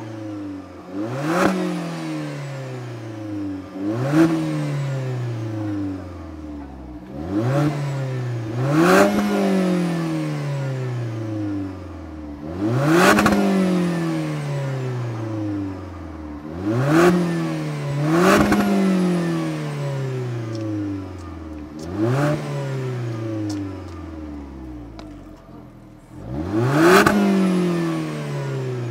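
Alfa Romeo Giulietta engine revved about nine times through a Ragazzon stainless steel duplex sports exhaust, each rev rising quickly and then falling slowly back to idle.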